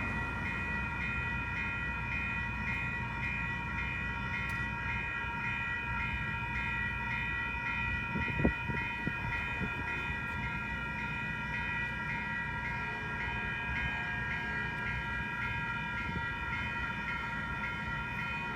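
Railroad crossing warning bells ringing continuously as one steady high-pitched tone over a low rumble, with a single sharp knock about eight and a half seconds in.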